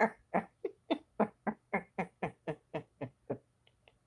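A person laughing hard in a long run of short, falling "ha" pulses, about three to four a second, trailing off near the end.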